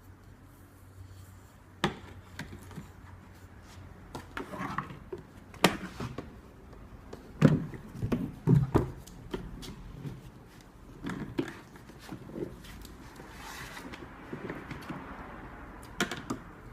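Irregular clicks and knocks of objects being handled, loudest about halfway through, with a short soft rustle-like noise a little before the end.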